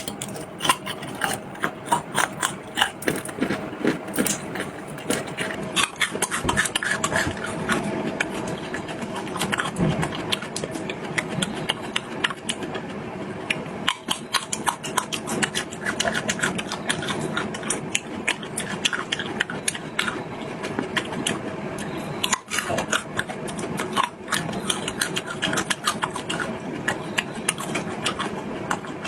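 Close-miked eating sounds: chewing and lip-smacking in a dense, irregular run of quick wet clicks, over a faint steady hum.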